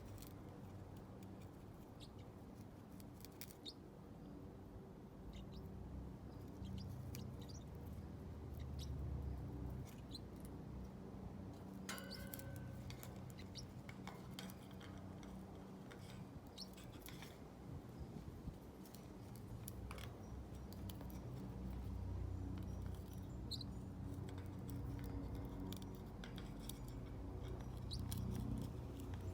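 Parrotlet chewing and biting at a yucca toy with its beak: faint, irregular crunching clicks throughout.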